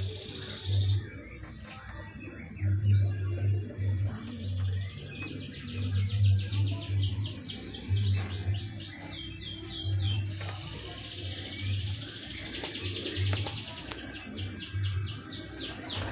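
Small birds chirping, with rapid high-pitched trills of quickly repeated notes coming in several runs, over a low hum that comes and goes.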